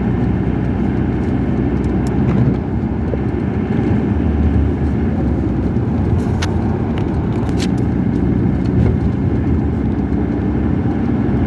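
Car driving along a road: steady engine and road noise, with two short clicks a little past halfway.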